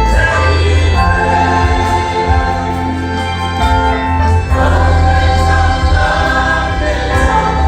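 Gospel worship music: a choir singing over sustained chords and a heavy bass, the chords changing every second or two.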